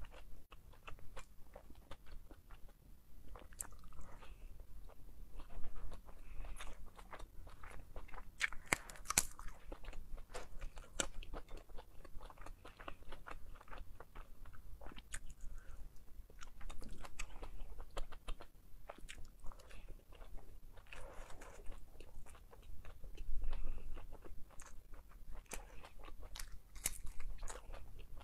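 Close-miked chewing and biting of crispy pan-fried dumplings: an irregular stream of small crunches and clicks.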